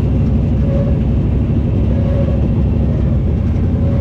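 Crate dirt late model race car engines at speed: a loud, steady, dense rumble with a faint whine that comes and goes.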